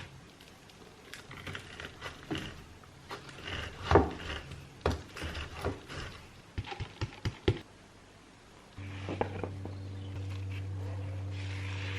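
Scattered light knocks and clicks of objects being handled, then about nine seconds in an electric appliance switches on and runs with a steady low hum.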